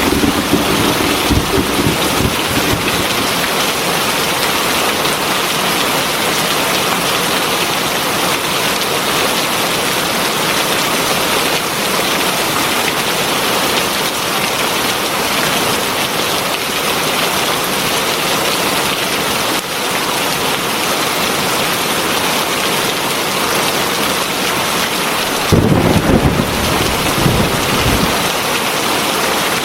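Heavy rain pouring steadily, with a rumble of thunder dying away in the first couple of seconds and another breaking in suddenly a few seconds before the end.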